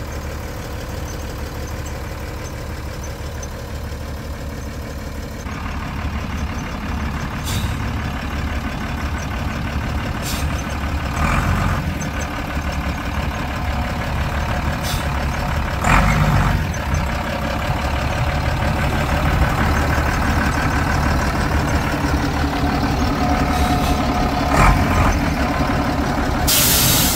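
Vehicle engine running steadily, getting louder and working harder after about five seconds, with scattered knocks and clunks and a short hiss near the end.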